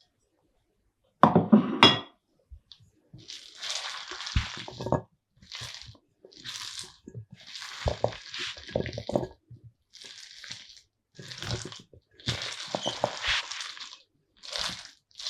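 Salad ingredients being stirred with a utensil in a bowl: a loud clatter a little over a second in, then a run of repeated scraping, squishing strokes.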